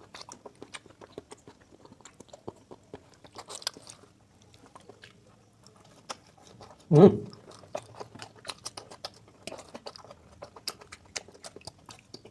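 A person chewing food close to the microphone, with many short mouth clicks throughout. One louder, lower mouth or throat sound comes about halfway through.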